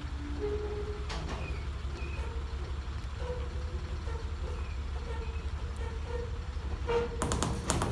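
A heavy vehicle's engine running at idle, a steady low rumble. Near the end a rapid run of sharp clicks begins.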